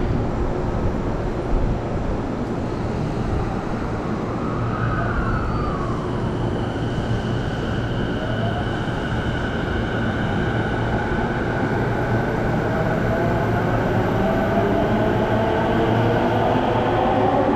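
Electric commuter train of the JR Chuo Line, an orange-striped E233 series, running alongside the platform over a steady rumble. Its motors whine in several tones that climb in pitch through the second half and grow louder toward the end.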